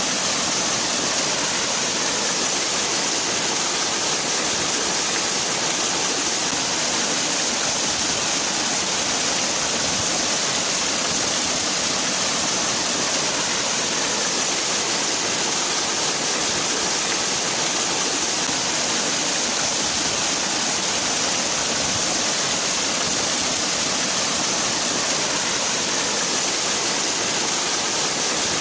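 Waterfall: a steady rush of falling water, constant in level and without breaks.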